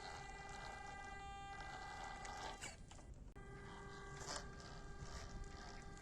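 Steady whine from the small electric motor and gearbox of a 1/16-scale WPL RC crawler truck driving on a trail. It cuts out for a moment about three seconds in, then picks up again, with a few scattered clicks.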